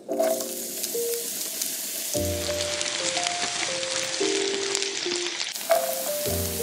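Sliced shallots sizzling as they fry in hot oil in a nonstick pan, stirred with chopsticks. About six seconds in, minced garlic drops in and the sizzle jumps up. Background music with a steady bass line plays under it.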